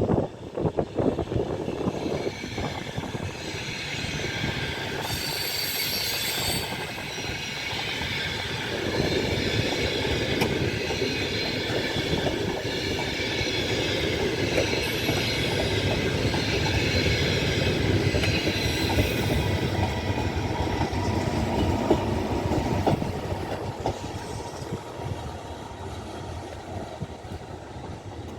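A train running through a station, its wheels clattering over the rail joints with a high metallic squeal of wheels on rail, fading away near the end.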